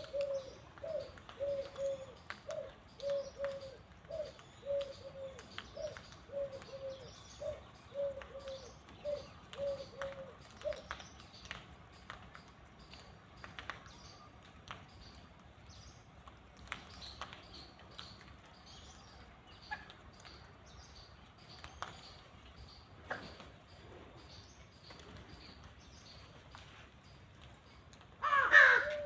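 Birds calling: a run of low repeated call notes, about one and a half a second, for the first ten seconds or so, thin high chirps throughout, and one loud call near the end.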